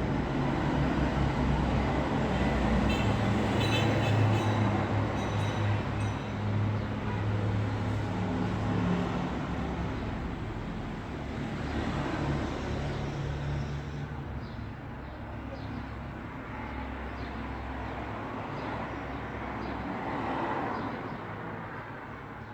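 Road traffic: a heavy vehicle's engine drones low and loudest in the first half, then fades into a quieter hiss of passing traffic.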